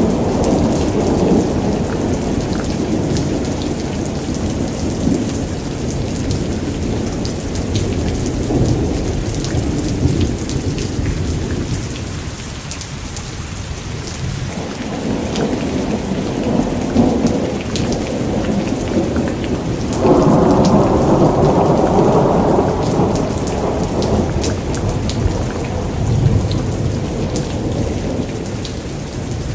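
Steady rain with rolling thunder that swells and fades. A fresh, louder thunder rumble breaks in suddenly about two-thirds of the way through and then slowly dies away.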